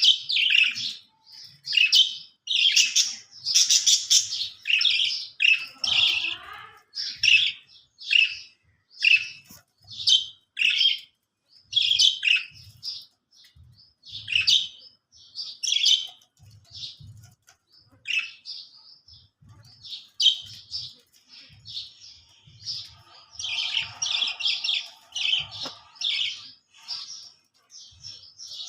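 Australian parrot chirping in a steady series of short, high chirps, about one or two a second, thickening into a denser run of chatter near the end.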